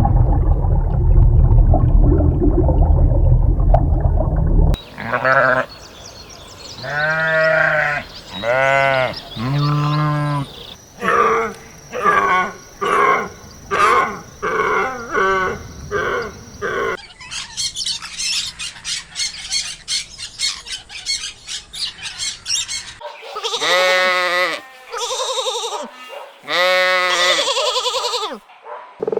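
A run of different animal calls: a low rumbling grunt first, then repeated bleating, a quick rhythmic series of shorter calls, a stretch of fast high-pitched buzzing clicks, and more bleating near the end.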